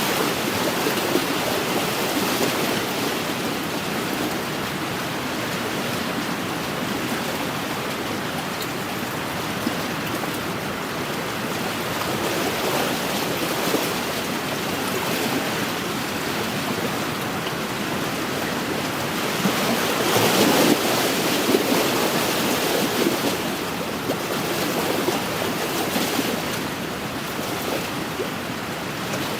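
Wind-driven waves lapping steadily on an inland lakeshore, with wind gusting through; a louder surge comes about two-thirds of the way through.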